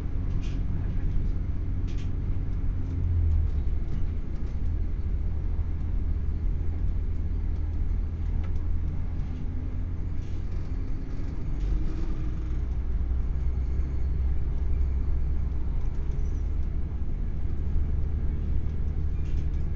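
Steady low rumble heard from inside a Class 170 Turbostar diesel multiple unit running at speed, with a few faint clicks from the track.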